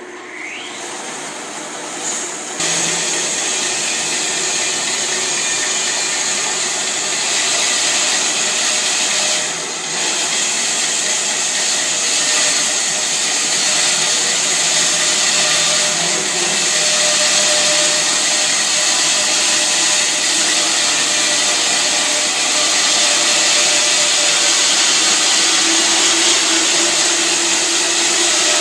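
Bandsaw mill sawing a log into lumber: a short rising whine as it starts, then about two and a half seconds in the sound steps up to a loud, steady, high-pitched hiss and whine as the blade runs through the wood, with a brief dip near ten seconds.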